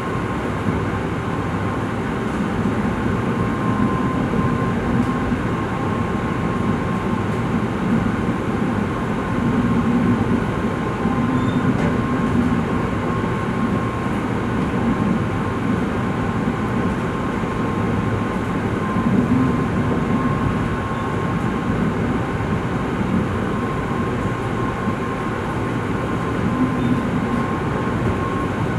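Tokaido Shinkansen train running, a steady rail rumble with a thin, steady high tone over it.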